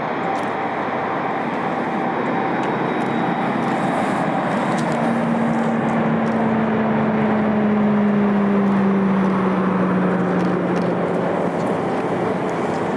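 Aircraft engine noise as a plane passes: a steady rushing noise with a low hum that comes in partway through and slides slightly down in pitch, loudest about two-thirds of the way in.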